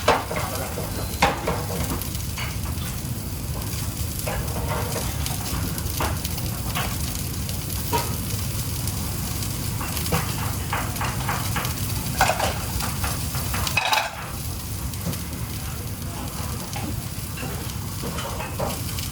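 Food frying in hot oil with a steady sizzle, overlaid by scattered clinks and knocks of kitchen utensils and pans. A louder clatter comes about fourteen seconds in, after which the sizzle is a little quieter.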